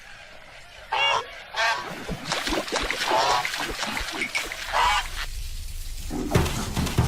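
An animal calling about four times, each call a short pitched cry.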